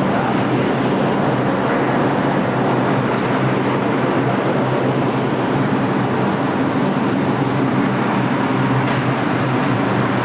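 Bombardier R142 subway train at a station platform: a steady rumble with a low hum that holds even throughout.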